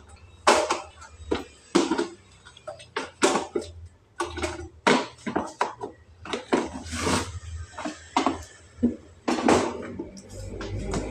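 Dishes, pots and utensils clattering as they are handled and cleared up, a string of irregular clinks and knocks.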